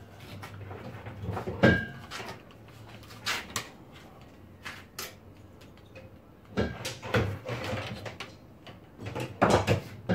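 Scattered knocks and clatters of tools and metal parts being handled and set down in a workshop, the loudest sharp knock about a second and a half in and a busier run of clunks in the last few seconds.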